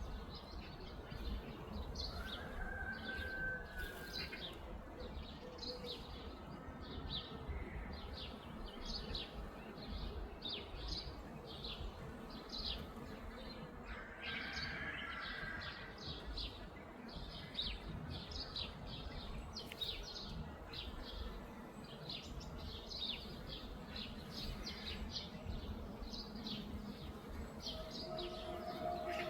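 Several songbirds chirping and calling, a dense run of short, high chirps that goes on throughout, with a few longer whistled notes, over a steady low background rumble.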